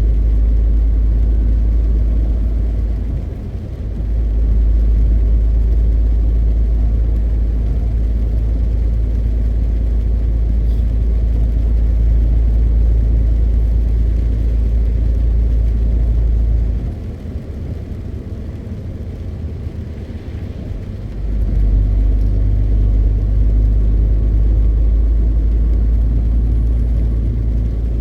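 MAN TGX 520 truck's 12.4-litre straight-six diesel as a deep, steady drone while driving. It drops away briefly about three seconds in and again for about four seconds past the middle, then pulls strongly again.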